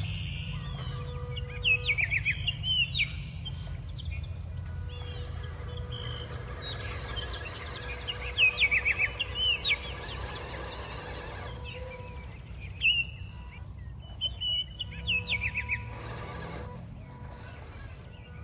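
A songbird singing in three bursts of quick, sweeping chirps, over a steady low rumble.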